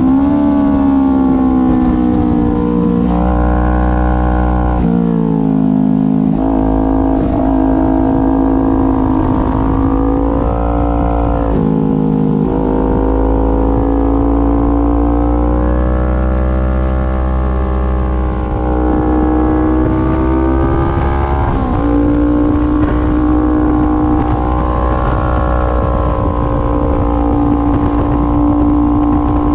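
Kawasaki Ninja 400 parallel-twin engine running at high revs on track, its pitch dropping sharply and then climbing again several times as it shifts and slows for corners.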